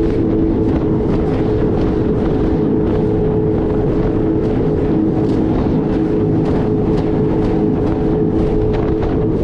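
Jet ski engine running at a steady high speed, with repeated short slaps and splashes of water against the hull.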